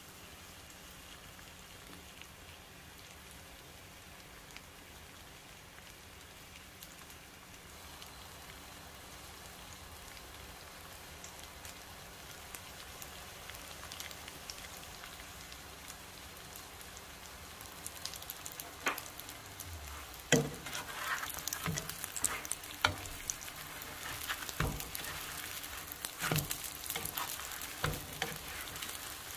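Keema rolls wrapped in roti sizzling gently in a little oil in a non-stick frying pan, the sizzle slowly getting louder. In the last ten seconds a spatula knocks and scrapes against the pan as the rolls are moved.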